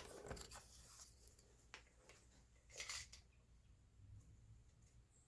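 Near silence with faint handling noises: a sharp click right at the start, a few light clicks, and a soft rustle about three seconds in.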